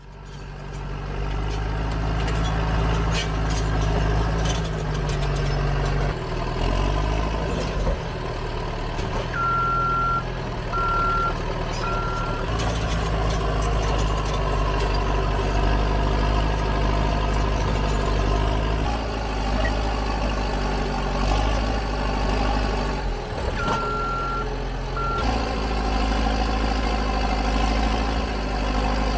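Heavy diesel machinery engine running steadily, changing pitch now and then, with a few clanks. A reversing alarm beeps three times about ten seconds in and twice more near the end.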